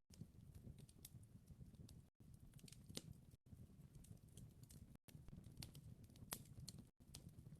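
Faint wood fire crackling: irregular sharp pops and ticks, a few louder ones, over a low rumble. The sound drops out briefly several times.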